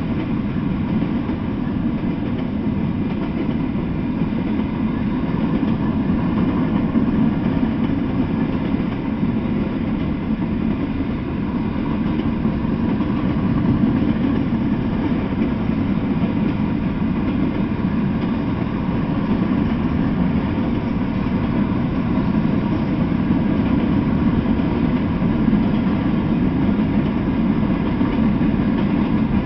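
Norfolk Southern freight train of coal-loaded open-top hopper cars rolling steadily past, a continuous low rumble of wheels on rail.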